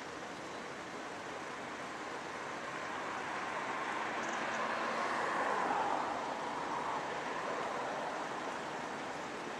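A vehicle passing by: a steady rushing noise that swells to a peak a little past the middle and then fades again.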